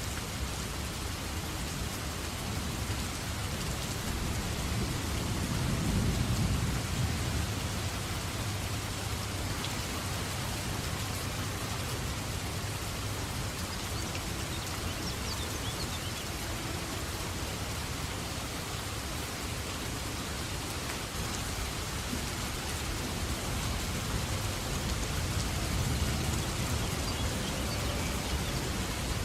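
Steady rain falling, with a low rumble of thunder swelling about six seconds in and again near the end.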